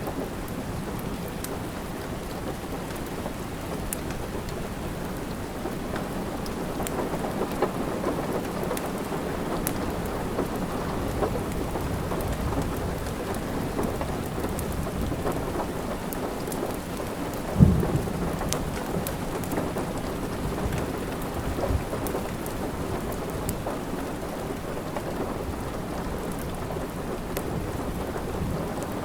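Steady rain with low thunder underneath and faint scattered crackles of a wood fire. A single sharp thump stands out about eighteen seconds in, with a smaller one a few seconds later.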